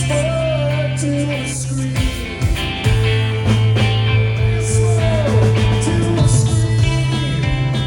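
Live rock band playing with electric guitars, bass and drums, and a sung or lead melody line over them.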